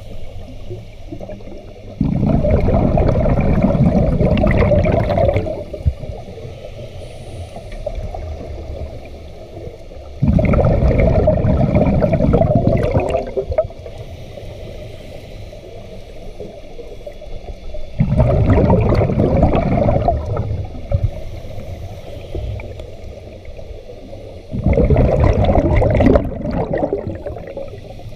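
Scuba diver breathing through a regulator underwater: four loud bubbling exhalations, each about three seconds long and roughly every seven to eight seconds, with quieter stretches between them.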